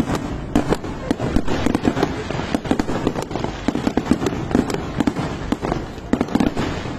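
Aerial fireworks going off in rapid succession, a dense run of sharp bangs and pops several times a second.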